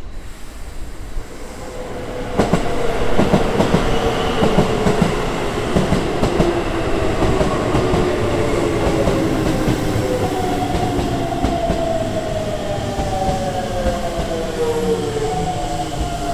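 A Keisei 3700-series electric commuter train arriving and braking. Its motors whine in tones that fall steadily in pitch, and its wheels knock over rail joints. The sound gets louder about two seconds in as the train reaches the platform.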